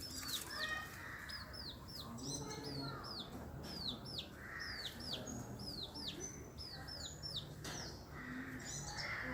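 Chick peeping: a steady run of short, high chirps, each falling in pitch, about two or three a second, with one harsher, lower call about halfway through.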